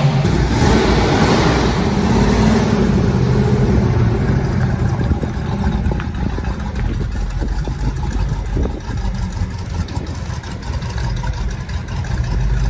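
Car engine running, with a rise and fall in pitch in the first few seconds, then a steady rumble.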